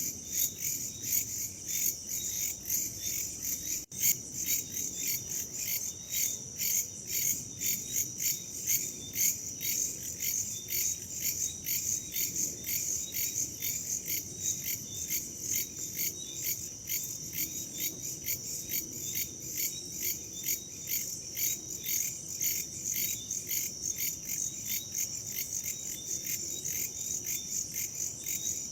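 A dense chorus of crickets and other insects chirping, a steady high-pitched pulsing that repeats several times a second. The sound drops out for an instant about four seconds in.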